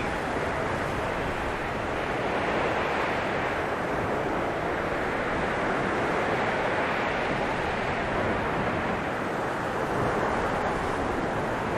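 Blizzard wind blowing steadily, a dense rushing noise that swells and eases slowly every few seconds.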